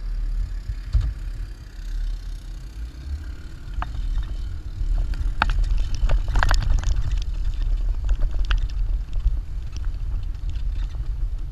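Jeep driving over sand dunes, its engine making a steady low rumble, with scattered knocks and rattles that become more frequent and slightly louder about halfway through.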